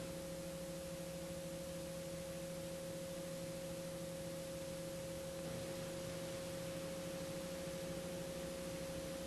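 Faint steady hum of a few fixed tones over light hiss, unchanging throughout.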